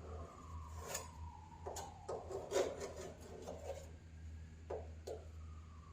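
Irregular rubbing and dabbing strokes as fiberglass is pressed and mashed down into a repair on a car hood, over a steady low hum. A faint tone slides slowly down in pitch behind it.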